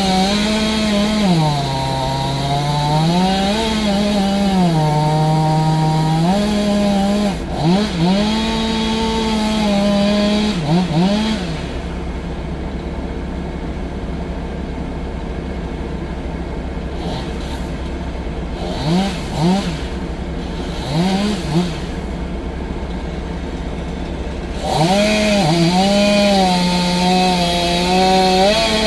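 Two-stroke chainsaw running at full throttle, its pitch sagging and recovering as it works under load in a cut. About twelve seconds in it drops back to idle, with a few short revs, then returns to full throttle near the end.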